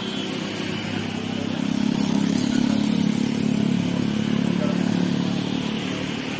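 Engine noise of a passing vehicle, rising to a peak about two seconds in and easing off near the end.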